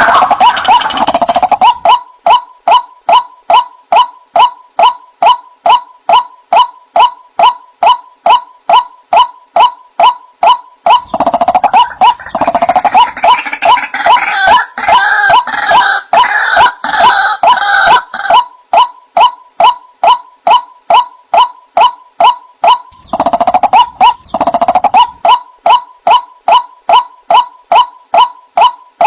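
White-breasted waterhen (ruak-ruak) calling: a steady, monotonous series of short notes, about two and a half a second. Twice, once in the middle and again shorter near the end, the calling swells into a denser, harsher outburst over the repeated notes.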